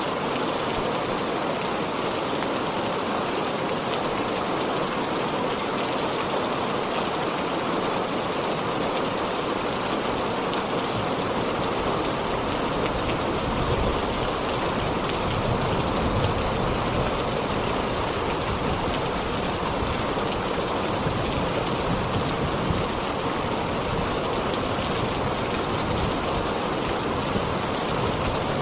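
Heavy rain falling steadily in a dense, even hiss, with a low rumble coming in underneath from about halfway through.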